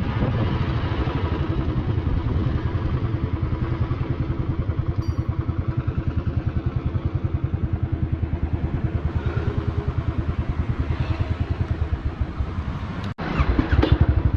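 Royal Enfield Thunderbird 350X's single-cylinder engine running with a steady, even pulse through a Red Rooster aftermarket exhaust. It breaks off sharply near the end and comes back louder.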